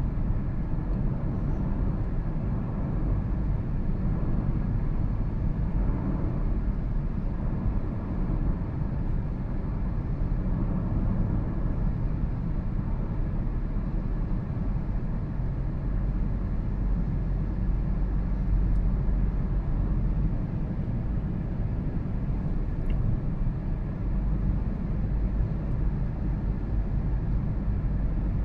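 2013 Toyota Prius on the move: a steady low rumble of road and running noise that holds an even level throughout.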